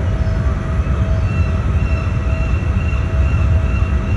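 Heavy engine machinery running with a steady low rumble, with faint steady higher-pitched whines over it.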